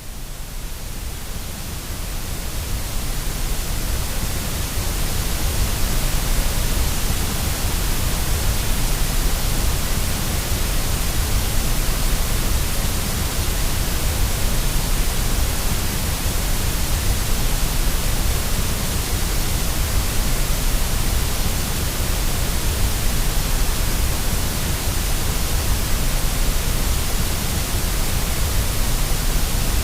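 Steady white noise for baby sleep: an even hiss with a heavy low rumble underneath, swelling up over the first few seconds and then holding level.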